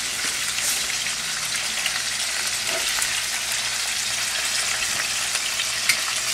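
Chicken pieces browning in olive oil in a stainless steel sauté pan: a steady frying sizzle with small crackles, and one light click near the end.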